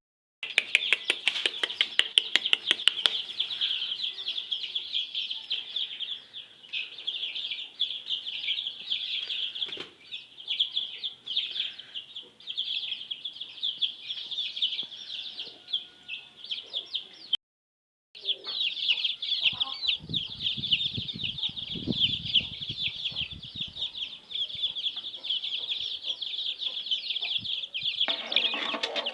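A flock of young chicks peeping constantly in a dense, high chorus. It opens with a quick run of sharp clicks, about four a second, and breaks off briefly about halfway.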